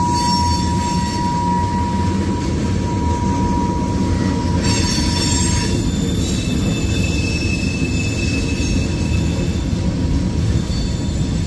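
Freight cars of a CSX manifest train, covered hoppers and tank cars, rolling past with a steady rumble of wheels on rail. Over it is a high, steady wheel squeal that fades out about five seconds in.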